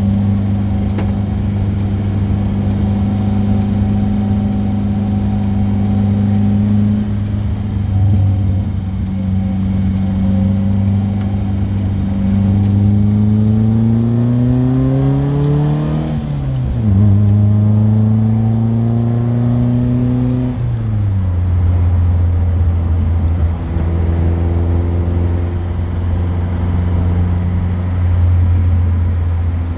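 Car engine running on the road, holding a steady pitch, then revving up through the middle. It drops sharply at a gear change, revs up again and settles back to a lower, steady pitch.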